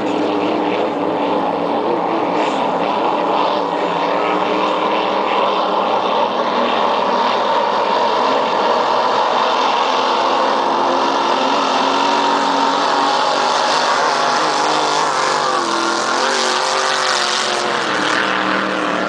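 Race boat engines running hard on the water, a loud steady high-revving drone whose pitch dips and rises again near the end as boats pass.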